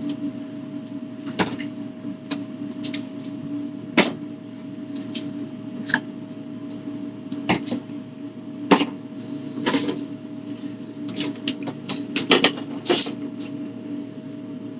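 Things being handled and rearranged in a refrigerator, giving irregular knocks and clicks as items are set down on shelves and bump each other. A steady hum runs underneath.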